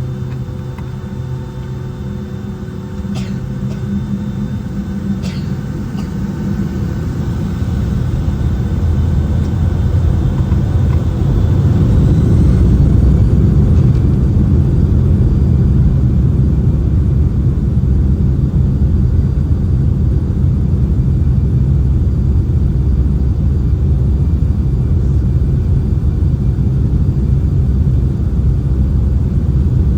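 Boeing 757-200 jet engines heard from inside the cabin, spooling up with a rising whine about ten seconds in and building to a loud, steady low rumble, as at takeoff thrust on the takeoff roll. Two clicks sound near the start.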